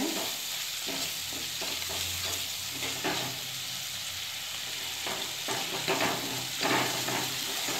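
Onion-tomato masala with ground spices sizzling in oil in a black wok while a spatula stirs it, scraping the pan in irregular strokes, fewer in the middle. The masala is being roasted before the chickpeas are added.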